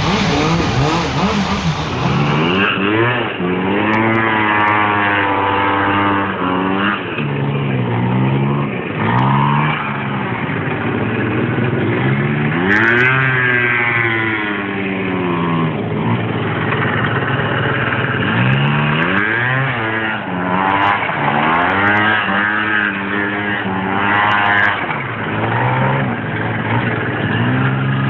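Motorcycle engine revving up and down over and over, its pitch climbing and then falling back roughly every two to four seconds.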